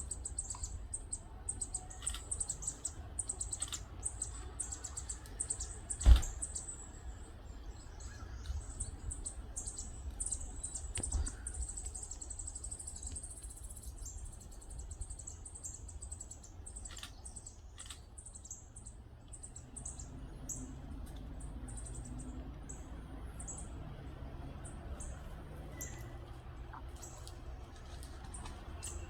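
Northern parula fledgling calling: a long run of short, very high, thin chips, rapid and dense in the first few seconds, then more scattered. A single loud knock about six seconds in, over a steady low rumble.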